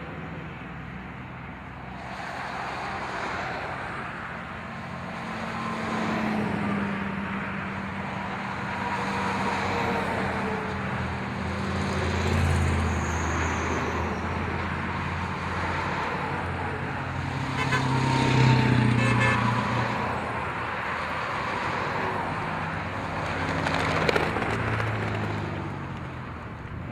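Tow trucks driving past one after another, engines and tyres swelling and fading as each goes by, loudest about eighteen seconds in.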